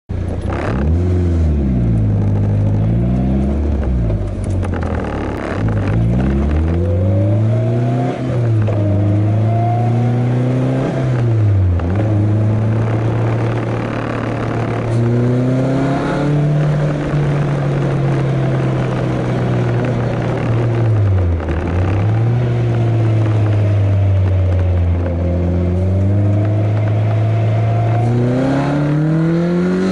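Caterham Seven's engine heard on board while driving, the revs climbing and dropping sharply several times through gear changes, with a long stretch of steady cruising in the middle.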